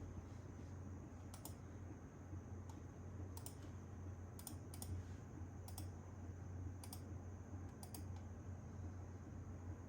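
About eight short, sharp clicks at irregular intervals, some in quick pairs, over a steady low hum.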